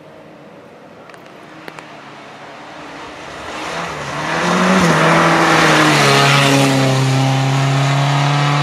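Rally car engine growing steadily louder as the car approaches under power. Its pitch drops once about halfway through, then holds steady at high revs.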